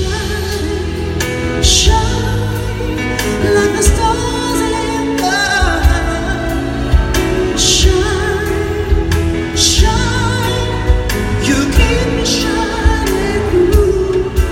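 A slow ballad sung with live band accompaniment: a held, wavering solo voice over drums, with a cymbal crash every few seconds.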